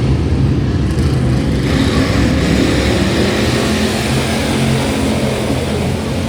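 Race car engines running hard at speed on a dirt oval, loud and steady, with a hiss of tyre and air noise over them.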